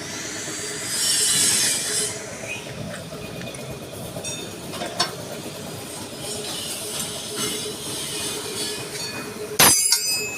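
Metal scraping and squealing in a truck body workshop, then one loud sharp strike on the sheet-metal bumper about three-quarters of a second before the end, ringing briefly.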